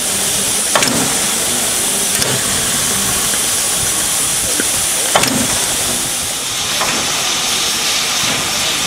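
Soviet L-class steam locomotive venting steam with a loud, steady hiss that starts suddenly and holds, with a few sharp clicks or knocks over it.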